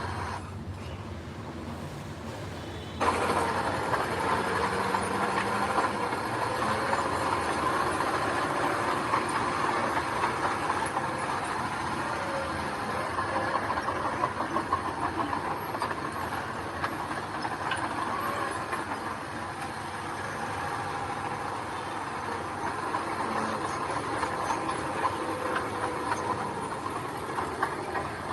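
Heavy earthmoving machinery running steadily, a dense engine and mechanical noise that jumps abruptly louder about three seconds in.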